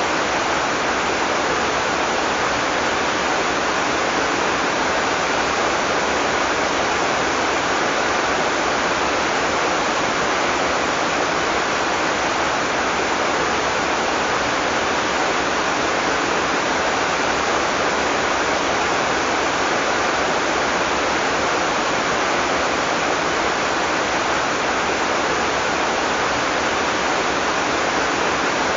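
Heavy rain falling steadily: a dense, even hiss of rain with no thunder and no single drops or other sounds standing out.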